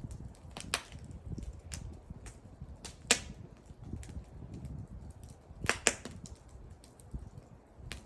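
Wood fire burning, with a low rumble and irregular crackles and pops, the sharpest about three seconds in and a close pair near the six-second mark.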